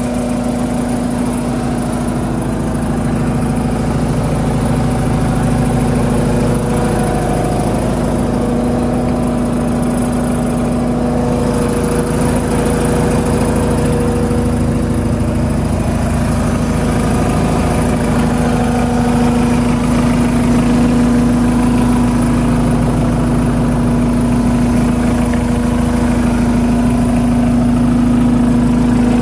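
New Holland L218 skid steer's engine idling steadily, one even tone with no change in speed.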